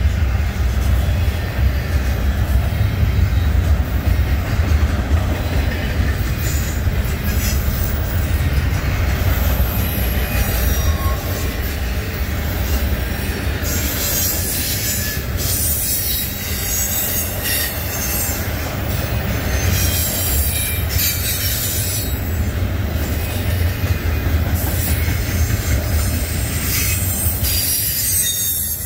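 Double-stack intermodal freight train's well cars rolling past: a steady low rumble of the wheels on the rails, with high-pitched wheel squeal coming and going from about halfway through.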